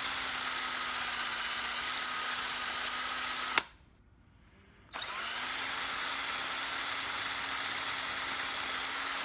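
Electric power tool running steadily while abrading a metal mortise lock part, smoothing down a gouge that would make it grab on the strike. It cuts off abruptly about three and a half seconds in and starts again about a second and a half later.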